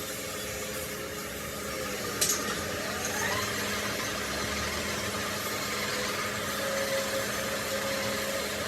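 Workshop machine running steadily with a constant hum. A sharp click about two seconds in is followed by a brief rising whine.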